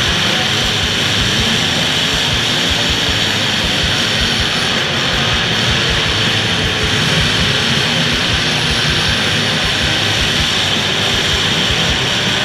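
Engines of several demolition derby cars running hard at once: a loud, steady din of engine noise with no single crash standing out.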